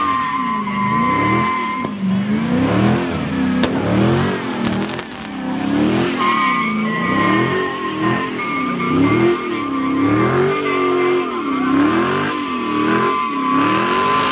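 Car doing donuts: the engine revs rise and fall over and over while the tires squeal in a steady high tone. The squeal breaks off for a few seconds early in the clip and starts again about six seconds in.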